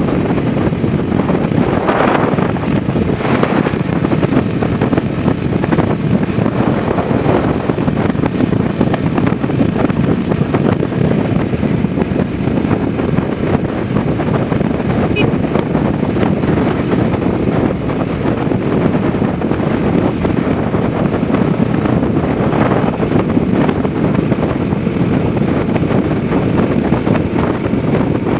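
Bajaj Dominar 400's single-cylinder engine and exhaust running at a steady cruise, with wind rushing over the action camera's microphone.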